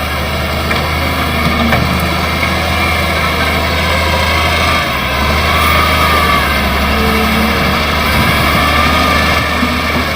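Hydraulic excavator's diesel engine running steadily while the machine works, with a faint wavering whine over the low engine sound.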